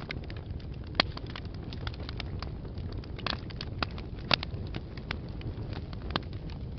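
Fire burning in a fireplace, crackling steadily with many sharp pops over a low rumble. Two pops stand out, about a second in and just past four seconds.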